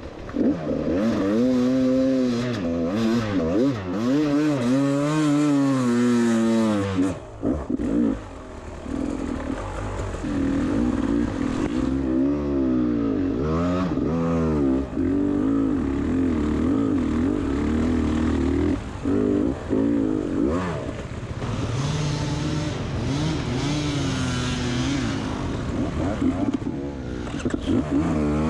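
Beta 300 RR two-stroke enduro bike engine being ridden, its revs rising and falling constantly with the throttle. The revs drop briefly about seven seconds in and again twice around twenty seconds.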